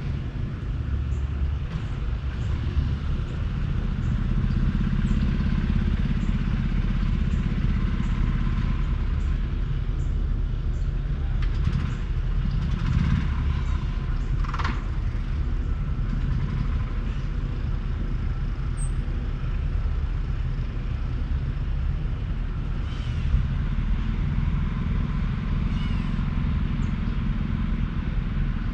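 Steady low outdoor rumble, with a few faint short high chirps, a brief pitched sound about halfway through and a single sharp click about 23 seconds in.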